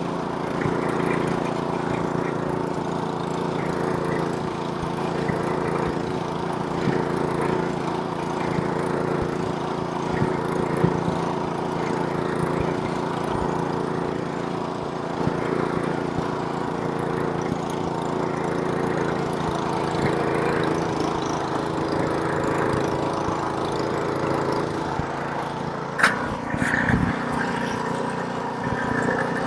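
Gas snowblower's small engine running steadily while throwing snow. Near the end comes one sharp knock, and the engine note shifts just after it.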